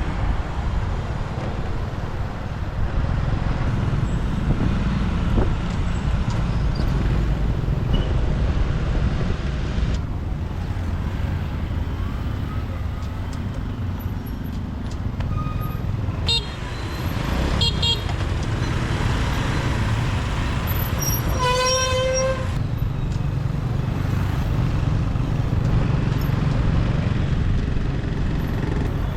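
Steady low rumble of a motorbike ride through city traffic. A vehicle horn honks once for about a second, about three-quarters of the way through.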